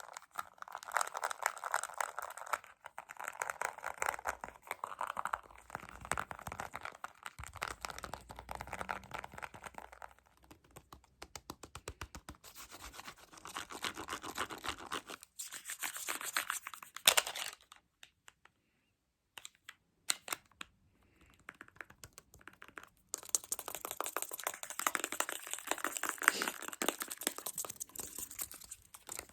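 Fast tapping and scratching close to the microphone, in dense runs of rapid clicks. Twice past the middle it drops to a brief near-silent pause broken by a few single taps before the fast tapping resumes.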